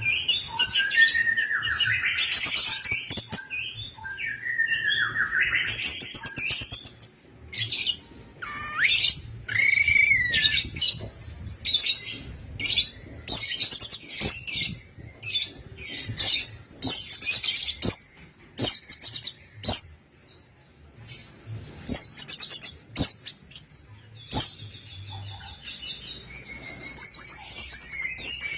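Orange-headed thrush singing a long run of short, varied phrases, many of them fast high trills, separated by brief pauses, with sharp clicks between some phrases.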